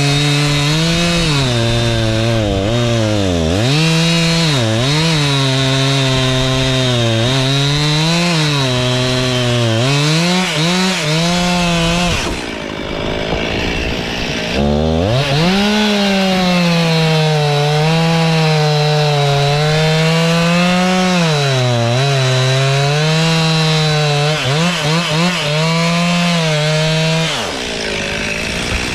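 Stihl MS 261 two-stroke chainsaw cutting wood at high revs, its pitch sagging and recovering again and again as the chain loads up in the cut. It drops back to idle for a few seconds around the middle and again near the end.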